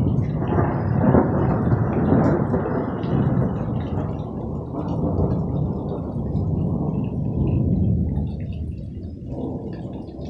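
Thunder: one long rolling rumble, loudest in the first few seconds, then slowly dying away about nine seconds in.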